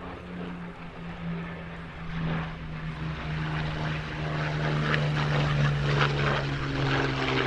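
Propeller-driven warbird's V12 piston engine droning in a flypast. It grows steadily louder, and its pitch slowly falls as it passes.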